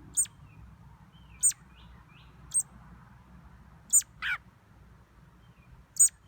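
A small bird calling with short, sharp, high chirps, five of them about a second or two apart. Each chirp drops quickly in pitch, and a lower falling call follows just after the fourth.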